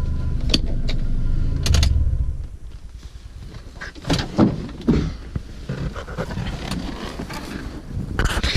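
Straight-piped exhaust of an old Opel Frontera running at idle, shut off about two seconds in. After that come scattered clicks and a few short whirring or creaking sounds, like a door or power window being worked.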